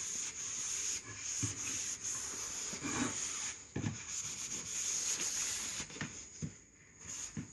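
Cloth rag rubbing over stained wood veneer, wiping off excess stain, a steady scrubbing hiss with a few light knocks of the piece or hand against the bench, easing off near the end.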